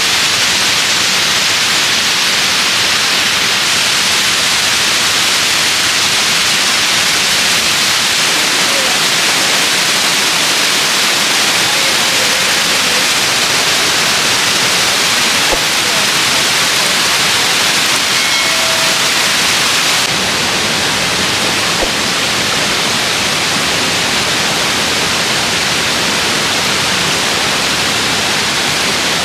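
Waterfall: a steady, loud rush of falling water, with a slight shift in level about two-thirds of the way through.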